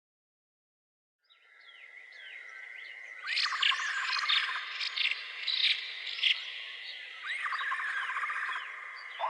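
Silence, then a natural animal chorus fades in about a second in: many short chirps and calls over a steady high-pitched trill, with louder bursts of calls from about three seconds in.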